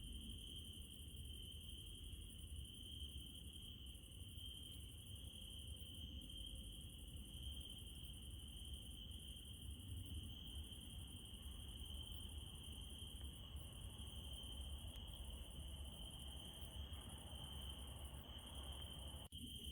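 Crickets trilling without a break at night over a low, steady rumble, with faint small clicks every second or two. The sound drops out for an instant near the end.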